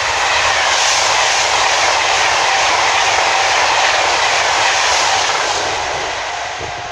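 Class 390 Pendolino electric train running through the station at speed: a loud rush of wheel and air noise that builds in the first second, holds, then fades over the last couple of seconds as the train draws away.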